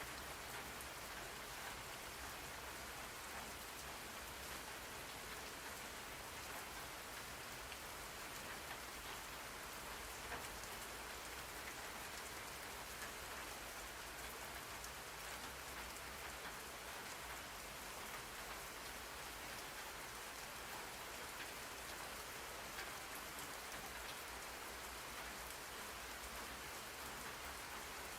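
Steady rain-sound ambience: a continuous even hiss of rainfall with a faint low rumble beneath.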